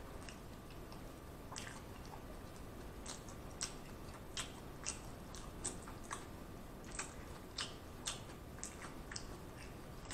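Close-up chewing of a mouthful of Big Mac: soft wet mouth smacks, about two a second, beginning after a second or so.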